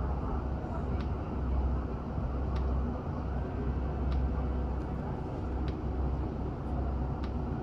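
Nishikigawa Railway diesel railcar running along the line: a steady low rumble, with faint sharp ticks about every second and a half.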